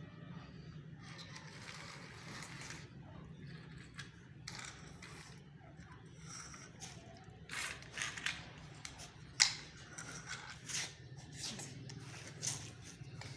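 Toy tractor being handled: scattered scrapes and clicks, thickest in the second half, with one sharp click about nine and a half seconds in, over a steady low hum.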